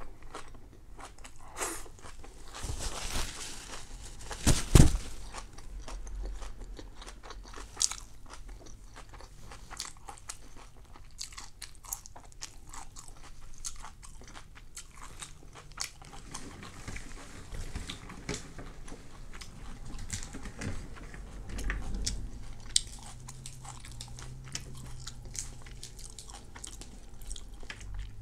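Close-up eating of a crispy rice pancake (banh xeo): chewing with many sharp crunches, the loudest bites coming about three to five seconds in.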